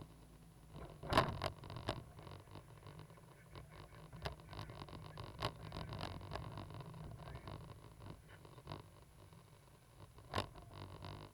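Cat 320GC hydraulic excavator at work: a low, steady engine hum with irregular knocks and scrapes, the sharpest about a second in and again near the end.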